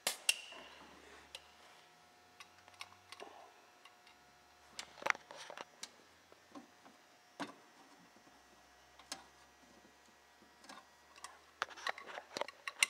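Scattered small clicks and clinks of hand tools and a compression gauge being handled on a snowmobile engine between cylinder readings, a sharp one right at the start, a few single ones in the middle and a quick cluster near the end.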